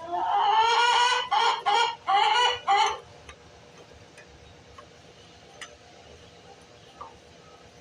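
A loud pitched animal call lasting about three seconds: it rises at the start, holds one long note, then breaks into four shorter notes.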